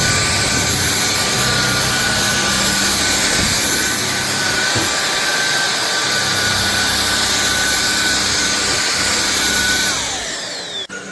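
Cordless stick vacuum cleaner running at full power with a steady high motor whine, then switched off near the end, its whine falling away as the motor spins down.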